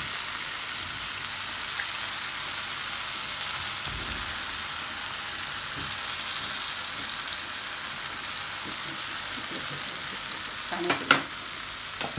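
Dried-prawn, onion and potato masala sizzling steadily in hot oil in a kadai, with a few sharp knocks close together near the end.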